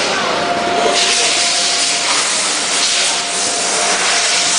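Automatic soldering machine running on its own: a loud, steady hiss that swells about a second in, over a thin steady tone.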